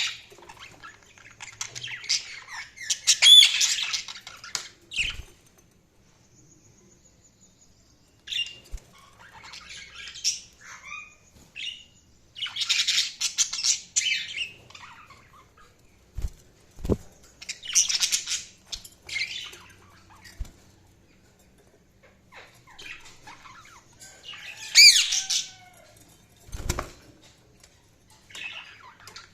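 Budgerigars chirping and chattering in bouts of a few seconds, with quieter gaps between, and a few short low thumps among them.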